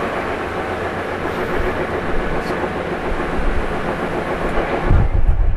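Tokyu 9000 series electric commuter train running on the rails: a steady rumble and rail noise, with a heavier low rumble about five seconds in.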